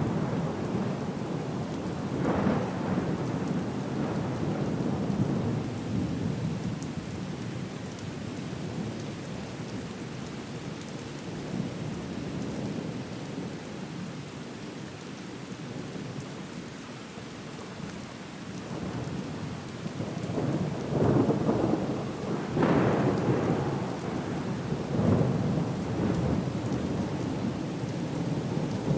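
Steady rain with rolling thunder. The rumbles swell up a little after the start and again several times near the end.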